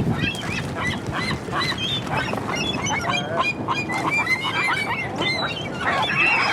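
A flock of seagulls calling, many short overlapping calls at once.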